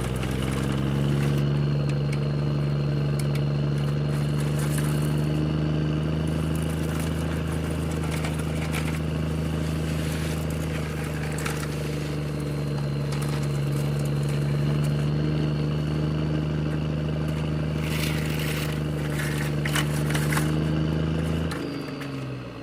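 A steady, even motor or engine-like drone that holds one pitch and stops about twenty-one seconds in, with a few light clicks or knocks near the end.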